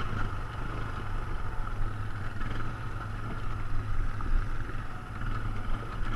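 ATV engine running steadily under way, with a constant low rumble.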